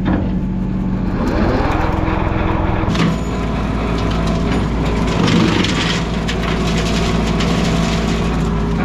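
Mahindra 1626 sub-compact tractor's diesel engine running, its pitch rising about a second in as it revs, with an abrupt change in the sound about three seconds in.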